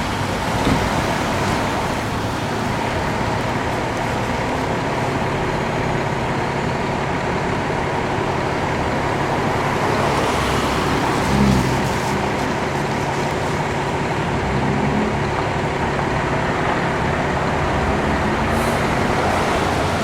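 Heavy road vehicles running with road traffic noise: a steady engine hum with a brief louder swell about eleven seconds in.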